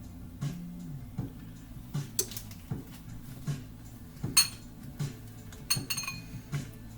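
A few sharp, ringing clinks of kitchenware, a utensil or dish knocking against a dish: one about two seconds in, the loudest near the middle, and a quick pair near the end. Under them runs quiet instrumental background music with a steady beat.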